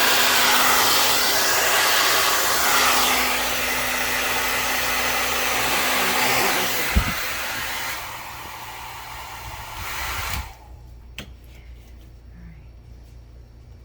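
Hair dryer blowing steadily, dropping in level about eight seconds in and switching off abruptly about ten seconds in. A sharp click comes about seven seconds in and another just after it stops.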